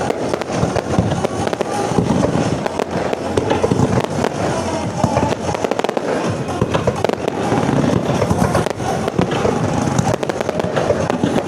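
Fireworks display, shells bursting and crackling in rapid, continuous succession with no pause.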